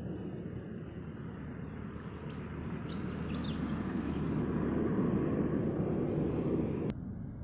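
Strong wind buffeting the microphone, a low rumble that swells into a gust and cuts off suddenly near the end. A few faint bird chirps show through about halfway in.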